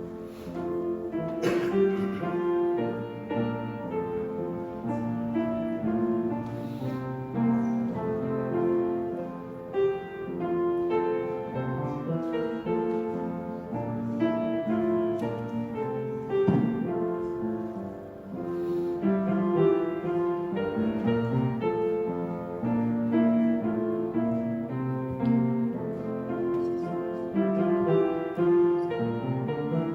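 Piano playing music.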